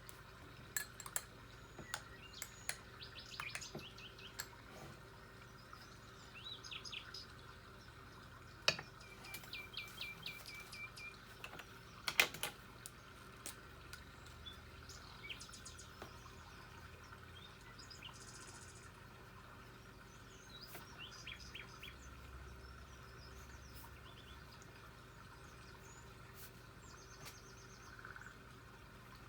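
Birds chirping faintly, with short calls and quick runs of repeated notes scattered throughout. A few sharp taps or clicks stand out, the loudest about 9 and 12 seconds in.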